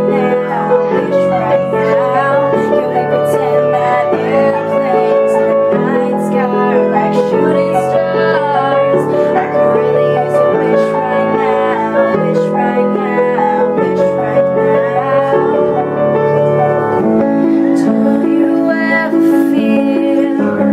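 Piano accompaniment with a woman singing over it.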